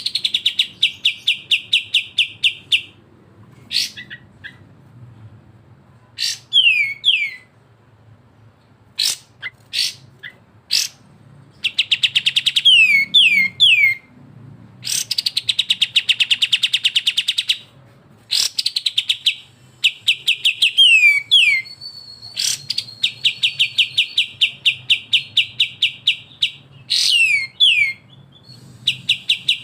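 Kapas tembak and cucak jenggot bulbuls singing in a looped training recording: long, fast rattling trills (besetan) alternate with short falling whistled notes in twos and threes, with brief pauses between phrases.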